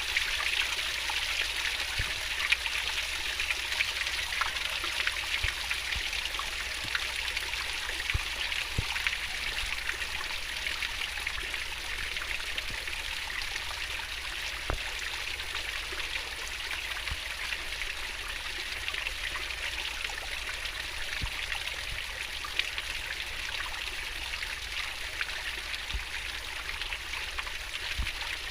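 Stream water flowing and babbling over rocks, a steady rushing hiss with small splashes and trickles throughout.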